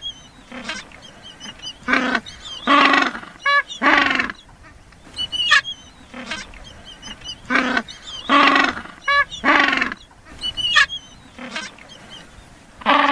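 Bird calls: short honking calls repeated every second or so, with thin high chirps between them.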